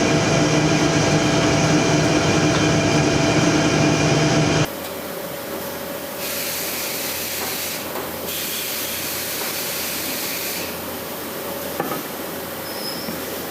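Woodworking machinery running: a loud, steady machine hum with a whine, which cuts off suddenly about five seconds in to a quieter, steady hissing machine noise that shifts in level a couple of times.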